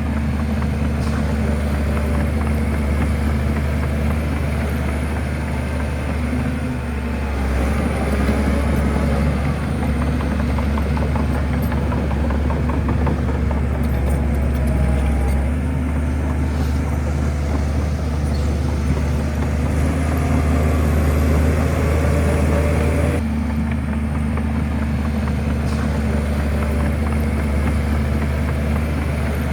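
Bulldozer's diesel engine running steadily with a deep drone, swelling a little now and then as it works.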